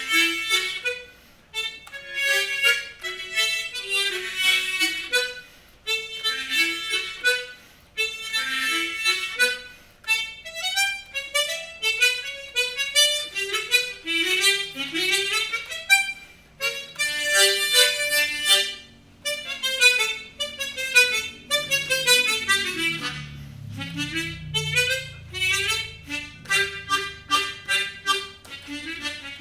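Harmonica playing a melody in quick phrases with fast runs of notes, including rapid descending runs partway through.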